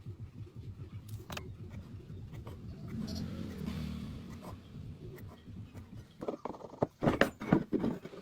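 Woodworking handling sounds: a low rumble with scattered knocks and clicks, then a run of louder sharp knocks and scrapes about seven seconds in.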